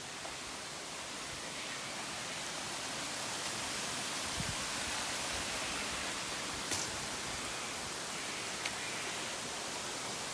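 Steady rushing of a waterfall, a broad even hiss of falling water that grows a little louder over the first few seconds, with a couple of brief clicks later on.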